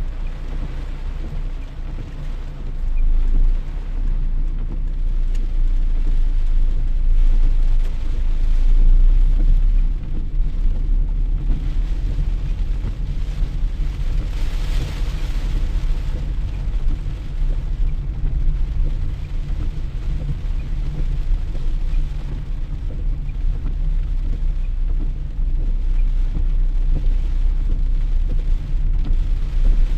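Steady rain falling, over a strong low rumble.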